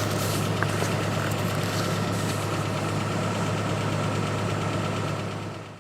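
Truck engine running steadily at a low idle-like hum, which cuts off abruptly near the end.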